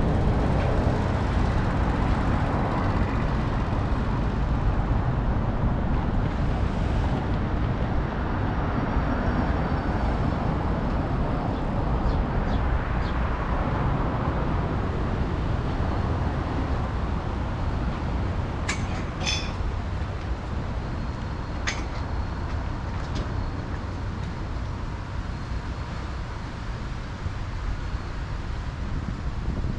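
Steady city road-traffic noise with a low rumble, with a few sharp clicks about two-thirds of the way through.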